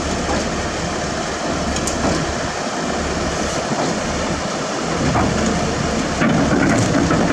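Heavy diesel construction machinery running steadily, with a few faint knocks, getting a little louder near the end.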